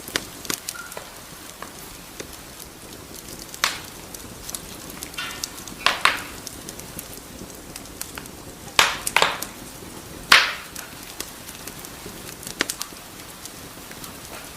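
Wood fire crackling in a fireplace: a steady low hiss under frequent small clicks, with a few louder pops scattered through the middle, the loudest about ten seconds in.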